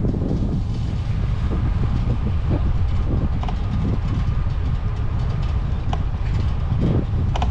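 Bicycle being ridden, a steady low rumble of tyres and frame with irregular clicks and rattles.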